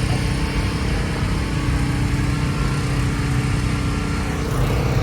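Car engine idling steadily, with a fast low pulse.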